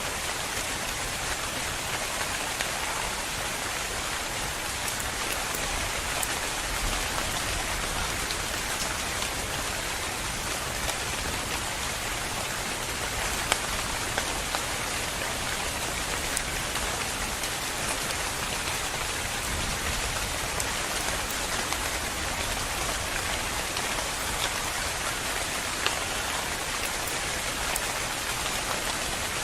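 Steady rain falling on a surface, a dense even hiss with scattered individual drops ticking sharply.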